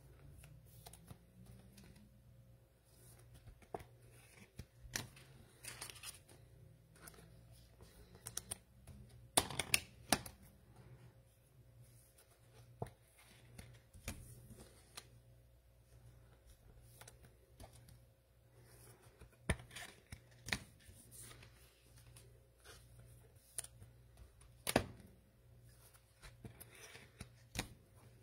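Cellophane-wrapped trading card packs being handled and opened: scattered crinkles, short tearing rustles and light taps of cards being handled, the loudest a few seconds apart near the middle and near the end.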